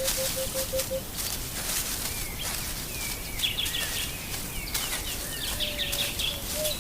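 Wild bush ambience with birds calling: a low piping note repeated about four times a second stops about a second in, then assorted chirps and short gliding whistles.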